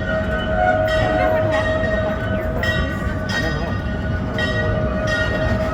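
Amusement-park ride train running along its track: a steady rumble with a sharp clattering stroke about once a second and a steady high-pitched ring over it.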